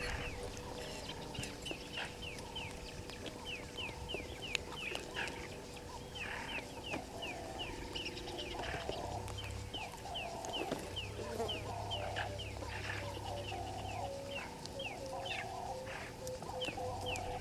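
Birds calling in the bush: a fast run of short, high, falling chirps, with lower clucking calls repeating about once a second.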